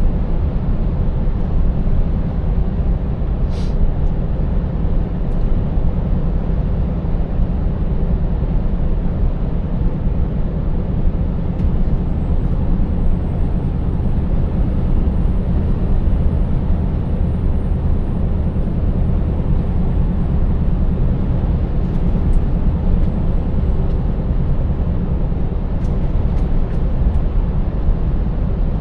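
Scania 590S truck's 16-litre V8 diesel running steadily under way, with a constant low drone and road noise. There is a single sharp click about four seconds in, and a faint high whine that rises and falls through the middle.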